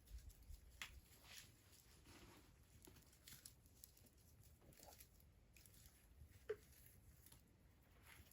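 Faint, sparse crackling and popping from a wood fire: scattered small clicks, with one sharper pop about six and a half seconds in.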